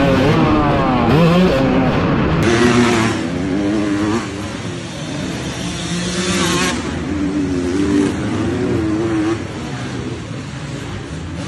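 Several dirt bike engines revving, their pitch rising and falling as the riders work the throttle and shift. Louder for the first few seconds, then the engines drop back.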